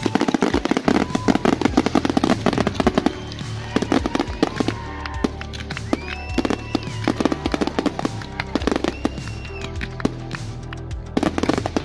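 Fireworks bursting in a rapid barrage of pops and crackles, thickest over the first three seconds and again near the end, with music playing underneath.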